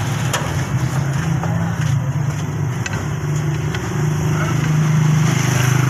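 An engine running steadily at idle, a low even hum that grows a little louder after about four seconds, with a few faint clicks.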